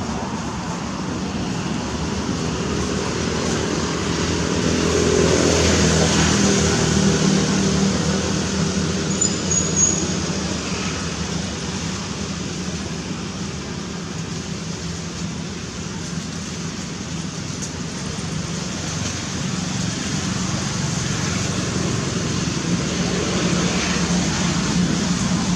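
Steady vehicle noise with a low hum, growing louder about five seconds in and easing off again.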